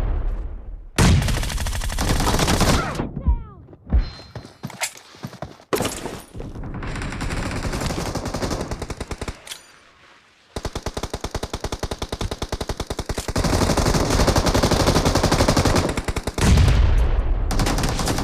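Automatic gunfire in a mobile shooter video game: several long bursts of rapid shots, about ten a second, separated by brief pauses.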